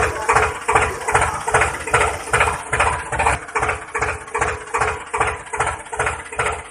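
DIY mini tractor's engine sound chugging steadily at about three beats a second, like a slow tractor engine idling, with a steady hum underneath.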